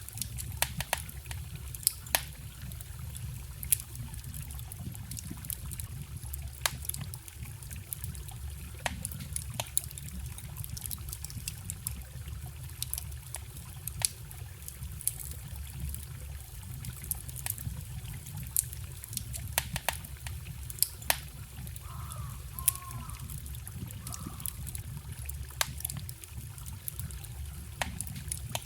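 Wood fire crackling with irregular sharp pops over the steady trickle of a forest stream.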